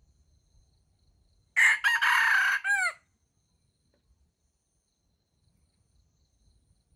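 A junglefowl rooster crows once, loud and about a second and a half long, breaking off in a few short falling notes at the end.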